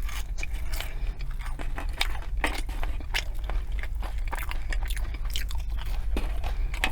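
Close-miked mouth sounds of someone chewing food: irregular wet clicks and smacks several times a second, over a steady low hum.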